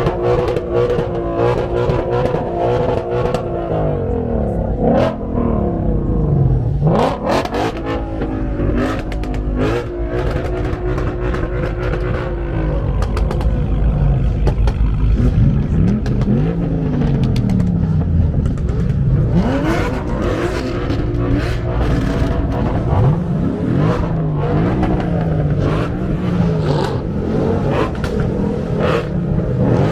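Car engine running and revving, its pitch repeatedly climbing and dropping as it is driven through the gears.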